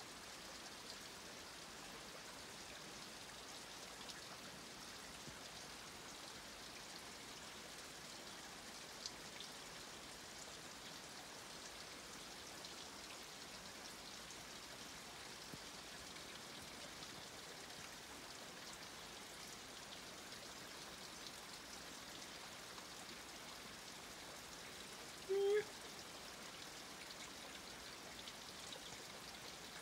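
Faint, steady patter of light rain and drips on rainforest foliage, with a few small drip ticks. About 25 seconds in comes one short call lasting about half a second.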